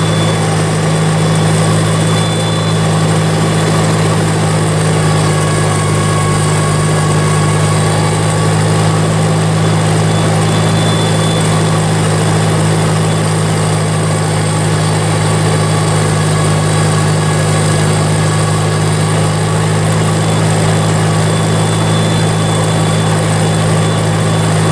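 1952 Farmall Cub's four-cylinder flathead engine idling steadily at an even, unchanging speed, warming up after a cold start.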